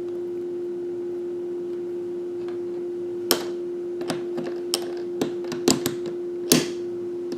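Hand tools and small parts being handled: a string of about eight sharp clicks and clacks, starting about three seconds in and coming closer together near the end, over a steady hum.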